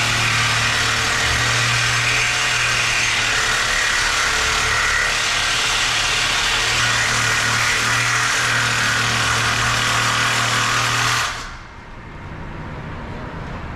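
Loud, steady machine noise with a low hum under a hiss, which cuts off suddenly about 11 seconds in.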